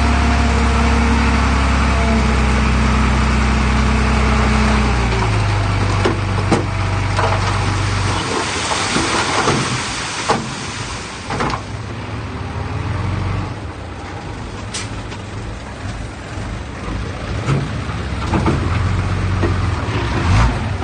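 Heavy diesel earthmoving machinery running hard with a steady drone. The engine note drops about five seconds in and falls away about eight seconds in, leaving a lower rumble with scattered metallic clanks.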